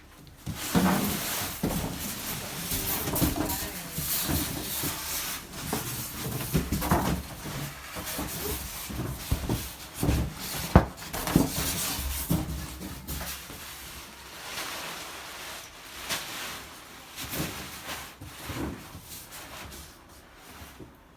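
Refrigerator drawers, shelves and doors being handled: a string of irregular knocks, clicks and rustling, with the sharpest knock about eleven seconds in.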